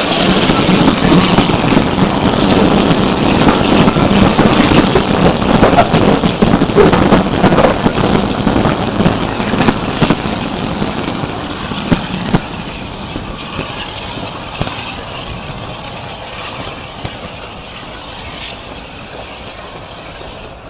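Steam-hauled train on a heritage line rolling past, its wheels clicking over the rail joints. The sound is loud at first and fades steadily as the train draws away.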